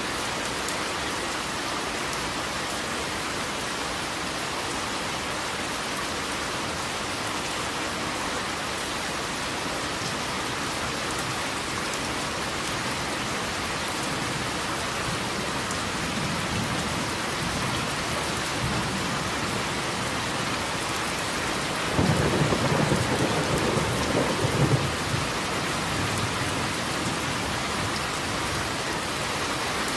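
Steady rain falling, with thunder: a faint low rumble a little past the middle, then a louder clap that starts suddenly about two-thirds of the way in and rolls on for about three seconds.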